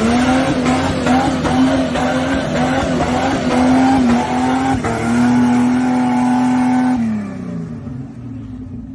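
Jeep engine revved high and held, with a brief dip about five seconds in, then let go about seven seconds in, the revs falling away and the sound fading.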